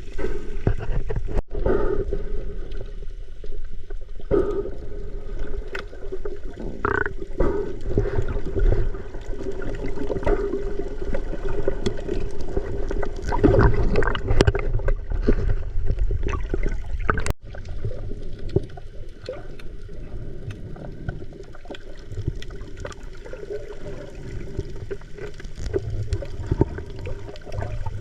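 Water gurgling and sloshing with a steady low hum and scattered clicks, typical of a camera dipped into the sea.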